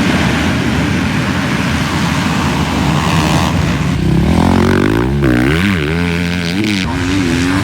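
Motocross dirt bike engines running loud on track. Over the second half, one engine's pitch rises and falls several times as the throttle is opened and shut.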